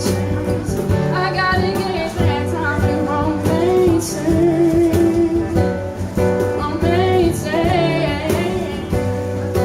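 Live acoustic country music: strummed acoustic guitar with a singer, who holds a note with vibrato near the middle.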